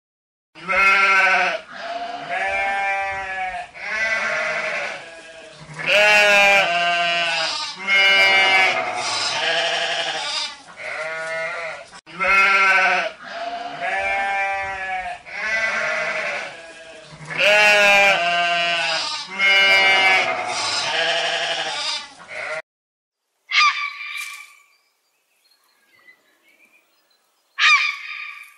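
An animal calling over and over: a run of loud, quavering, bleat-like calls, each a second or two long, then a pause broken by two short calls near the end.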